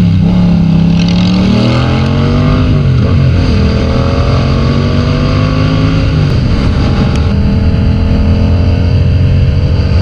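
Motorcycle engine running under way, its pitch climbing and dropping back with gear changes about three seconds in and again about six seconds in, then holding fairly steady.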